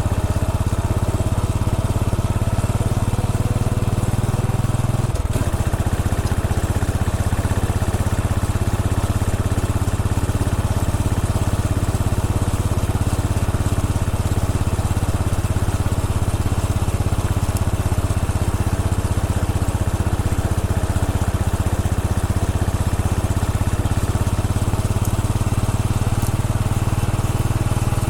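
Royal Enfield Bullet 500's single-cylinder engine running steadily under way, its firing pulses continuous, with a brief change in the engine note about five seconds in.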